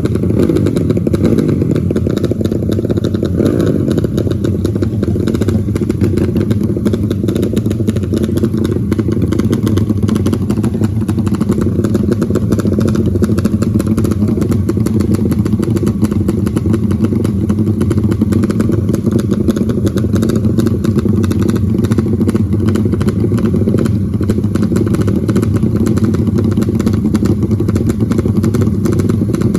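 Trail motorcycle engine running steadily and loud.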